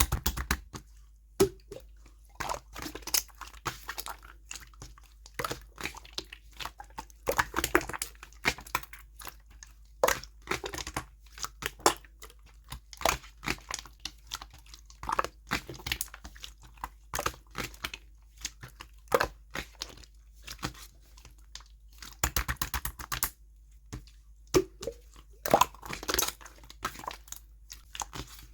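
Clear slime being squeezed and pressed by hand, making clusters of wet clicks and crackling pops with short pauses between, and a quick run of clicks a little before the end.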